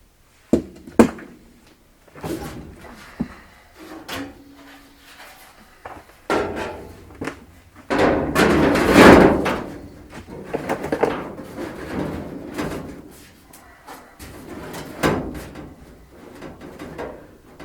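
Sheet-metal wheel arch panel being handled and set against a pickup box: scattered sharp knocks and clunks, then scraping and rubbing. The loudest stretch of scraping comes about eight to ten seconds in.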